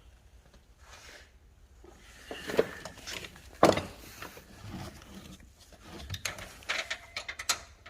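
Irregular knocks and clicks of tools and parts being handled, the loudest knock about halfway through and a quick run of clicks near the end.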